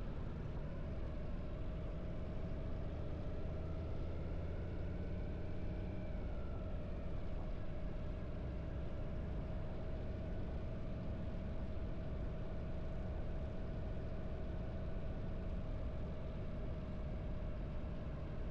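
Harley-Davidson V-twin motorcycle engine running steadily at cruising speed, a low rumble that holds an even pitch, with a slight rise and fall in engine note about a third of the way in.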